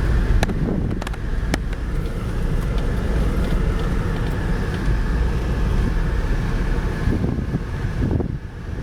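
A car running, a steady low rumble of engine and road noise, with a few light clicks in the first two seconds; it eases off near the end.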